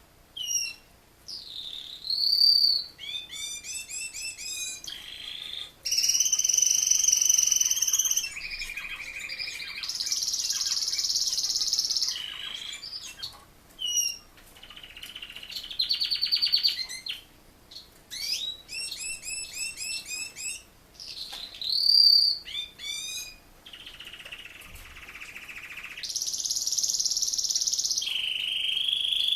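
Male Razza Espagnola canary singing a varied song: rapid repeated trills, clear rising and falling whistled notes, and long rolled passages of several seconds each, broken by short pauses.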